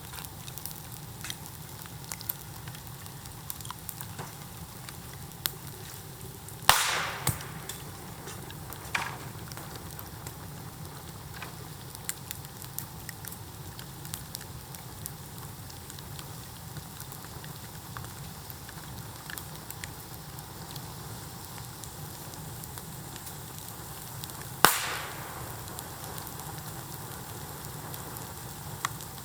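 Bamboo bonfire crackling and hissing steadily with scattered small pops. Two loud bangs, one about seven seconds in and one later, each with a short fading hiss: bamboo sections bursting in the heat.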